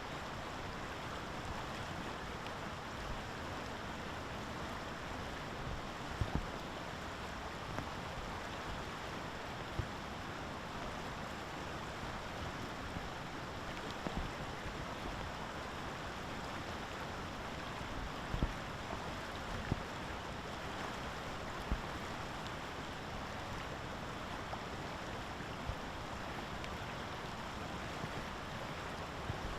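Steady outdoor rushing noise, with a few soft, brief low knocks scattered through it.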